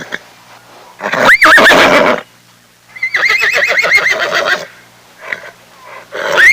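Horse whinnying: a call about a second in that rises sharply in pitch, then a longer whinny with a rapid quavering wobble in pitch, and a third beginning right at the end.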